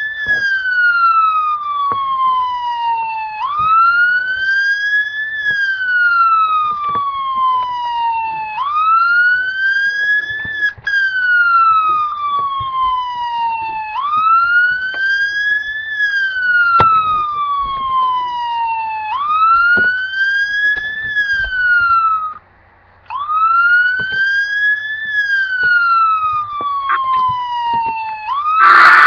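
Emergency vehicle siren sounding a slow wail: each cycle sweeps up quickly, then falls slowly over about five seconds, about six times over. It breaks off for about half a second about 22 seconds in, and right at the end gives way to a loud noisy sound.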